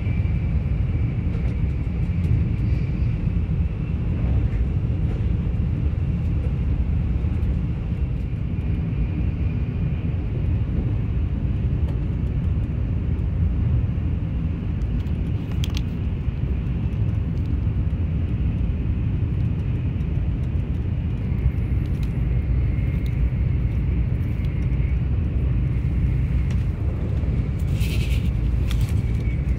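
Shinkansen bullet train running, heard from inside the passenger car: a steady low rumble with a faint high whine at times. A few sharp clicks sound about halfway through and again near the end.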